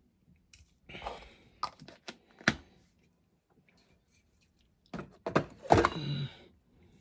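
Several knocks and clatters of small parts and tools being handled and set down on a work surface: a few single knocks, then a louder cluster near the end.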